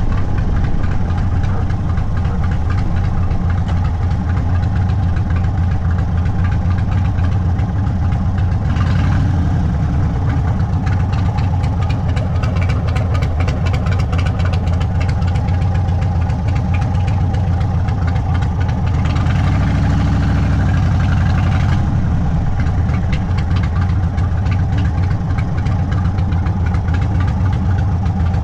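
Indian Sport Chief's stage 2 V-twin engine running through a Sawicki Speed exhaust, steady and loud, with a brief change in its note about twenty seconds in.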